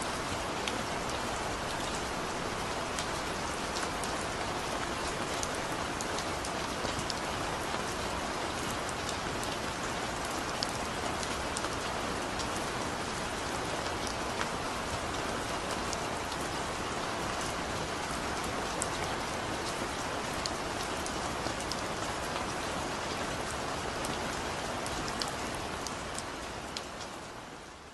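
Heavy rain falling steadily, a dense hiss with many single drops ticking through it, fading out over the last couple of seconds.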